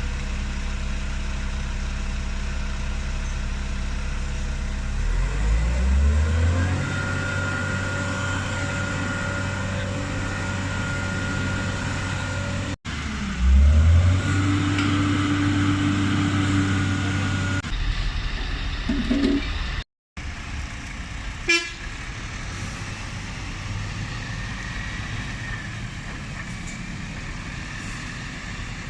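Heavy truck engine running, its pitch rising twice as it revs up and pulls away, with a steady horn tone held through the first rise. The sound breaks off suddenly twice, and after the second break only quieter road noise remains, with one short sharp sound.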